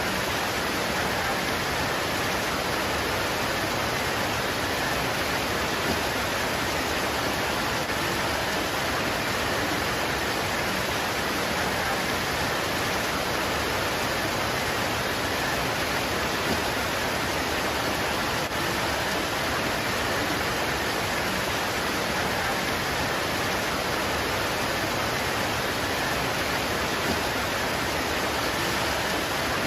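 Steady heavy rain pouring onto leaves, an even unbroken hiss with no single drops standing out.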